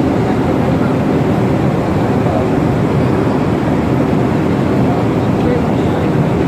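Steady, loud rumbling noise aboard the moving passenger ship KM Kelud, without breaks.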